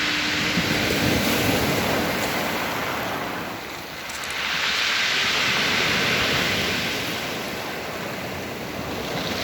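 Rough sea surf breaking and washing ashore in two big surges, with wind buffeting the microphone.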